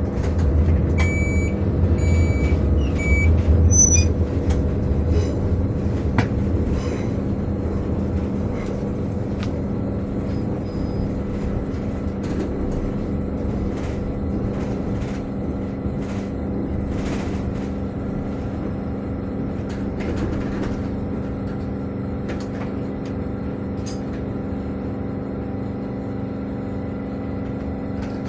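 Heathrow Express Class 387 electric train running, heard from inside the carriage: a steady hum of the motors over the rumble of the wheels, heavier in the first few seconds. A few short high beeps sound a second or two in.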